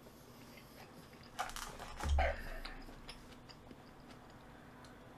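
A person eating jjajangmyeon (black-bean-sauce noodles), chewing close to the microphone. There is a brief cluster of wet mouth noises about a second and a half in and a dull low thump around two seconds, then faint chewing.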